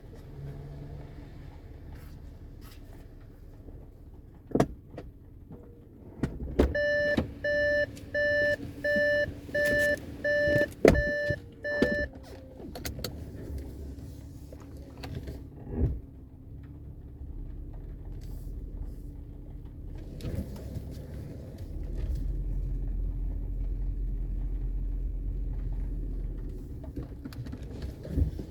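Car door thuds and a car's warning chime beeping eight times, evenly about 0.7 s apart. Later a low steady rumble of the car running grows louder for a few seconds, then eases.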